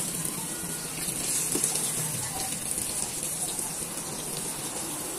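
Battered eggplant slices deep-frying in hot oil: a steady sizzle with a few scattered crackles.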